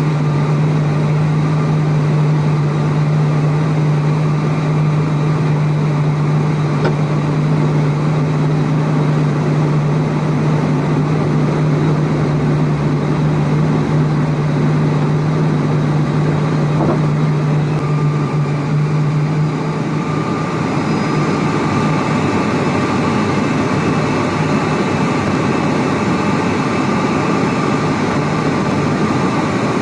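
ATR 42-600 turboprop with Pratt & Whitney PW127M engines, heard from the cabin on final approach and landing: a steady propeller drone with a strong low hum. The hum ends about twenty seconds in, shortly after touchdown, and the sound turns into a broader rush of engine and rollout noise.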